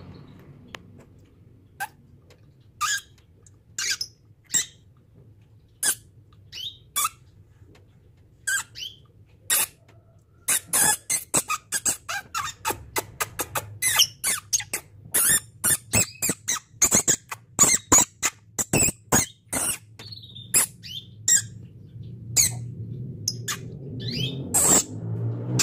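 Domestic canary singing: scattered sharp, high chirps at first, then a dense run of rapid notes from about ten seconds in, thinning out again near the end.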